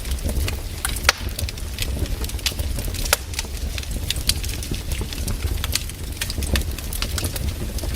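Campfire crackling: burning wood giving off frequent, irregular sharp pops and snaps over a steady low rumble.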